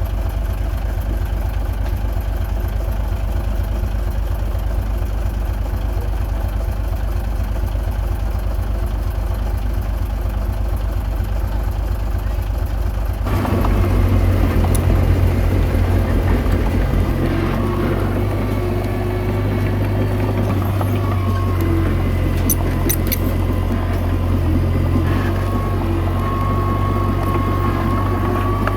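Komatsu D21A bulldozer's diesel engine running steadily. About halfway through it changes abruptly to a louder, busier note with a high whine on top.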